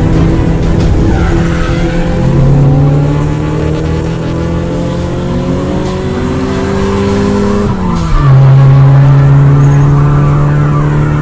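Race car engines running hard, their pitch climbing slowly and then dropping sharply about eight seconds in before holding steady again.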